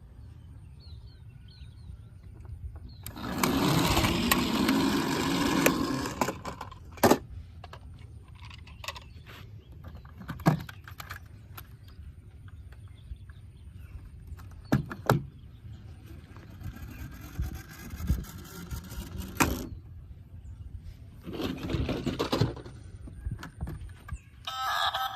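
Handling noise from toy vehicles being played with: two noisy stretches a few seconds long, one early and one near the end, with several sharp clicks and knocks in between.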